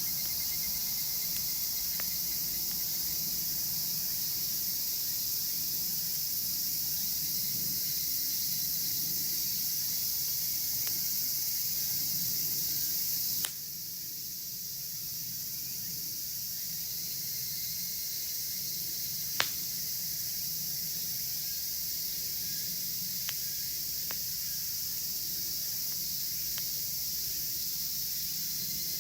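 Chorus of cicadas droning steadily, dropping a little in level just under halfway through, over a wood fire crackling with scattered pops; one sharp pop about two-thirds of the way through is the loudest sound.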